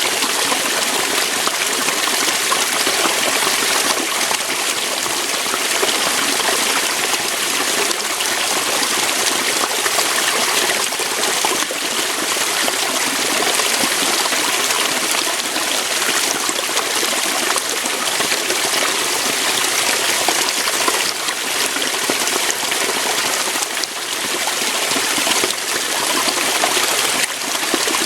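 Small waterfall splashing over rocks: a steady, even rush of falling water with a bright hiss.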